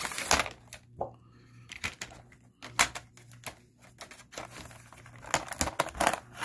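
Small hand tools being picked up and handled: irregular clicks and light clatter against a hard surface.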